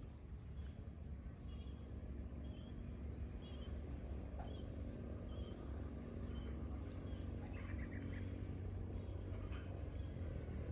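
Faint birds chirping in short calls every second or so over a low, steady background rumble.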